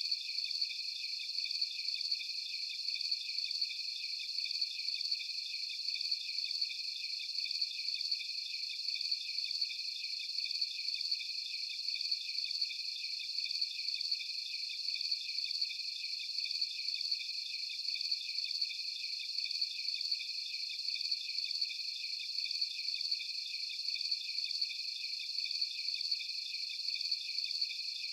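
Crickets chirping at night: a high, even chorus that pulses in a steady rhythm, with nothing low beneath it.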